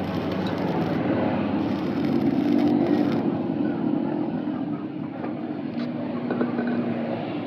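An engine or motor running steadily, its hum rising slightly and getting louder about two to three seconds in, then settling.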